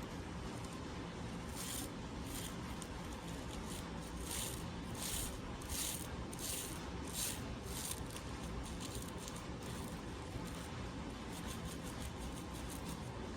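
Small brush scrubbing with toothpaste in short back-and-forth strokes, about one and a half a second, stronger in the middle and fainter and quicker near the end.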